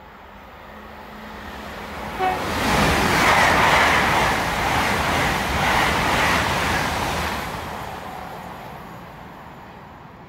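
GWR Class 802 IET train passing through the station at speed without stopping: a rushing rumble of wheels on rail that builds, stays loud for about four seconds as the carriages go by, then fades away. A short sharp tone sounds about two seconds in.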